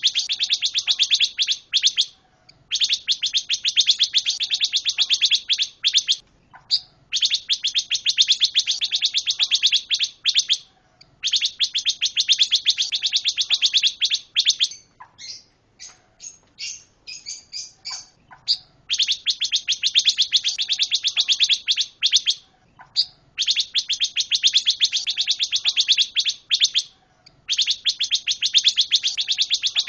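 A caged songbird of the kind Indonesian bird-keepers call pancawarna, singing loud phrases of very fast, rattling repeated chirps. Each phrase lasts a few seconds and is followed by a short pause. About halfway through there is a looser run of scattered single notes.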